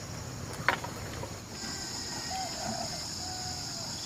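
Insects buzzing steadily in a high pitch, growing louder about a second and a half in. A single sharp snap comes just before that.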